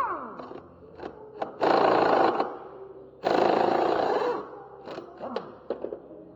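Two one-second bursts of a power tool running on the transmission, with metal clicks and clinks of parts being handled before and after.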